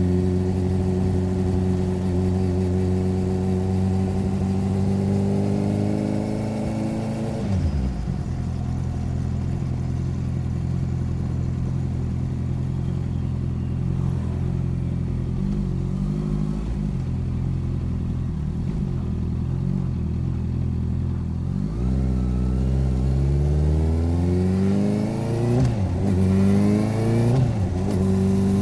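Motorcycle engine and exhaust under way, recorded from beside the bike: revs climb, drop sharply at a gear change about a quarter of the way in, then hold steady. Near the end it accelerates again through a few quick shifts.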